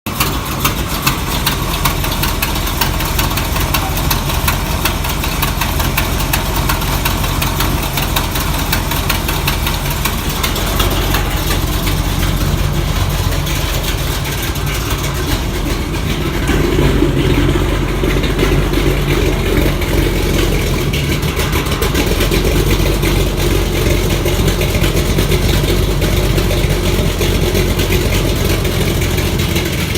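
1976 Chevrolet Monte Carlo's V8 running at idle, with a fast puffing tick from an exhaust leak. The engine picks up briefly a little past halfway, then settles back.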